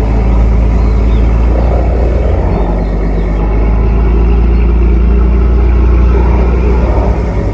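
Tugboat's diesel engine running steadily with a deep, even rumble.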